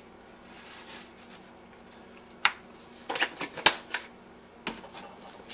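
A soft rustle, then a handful of sharp plastic clicks and clacks, the loudest about three and a half seconds in: the coffee can, tablespoon and drip coffee maker being handled.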